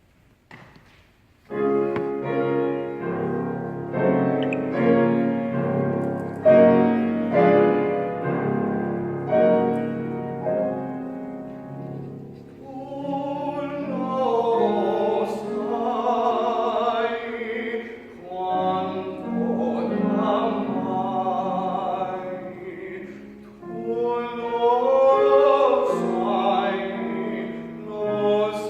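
Piano accompaniment starts about a second and a half in, playing a slow introduction; about halfway through, a tenor voice comes in, singing a classical art song with vibrato over the piano.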